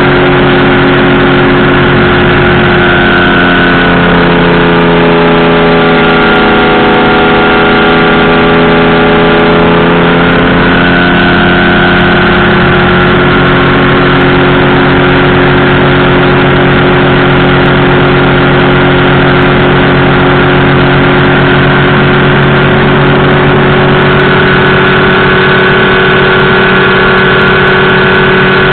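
Powered parachute's engine and propeller running loud and steady; the engine note drops about four seconds in and climbs back up about ten seconds in as the throttle is eased and reopened.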